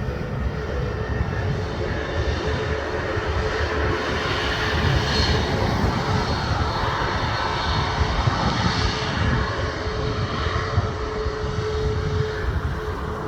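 Airliner engines running, a continuous drone with a steady held tone, its higher rushing sound swelling in the middle.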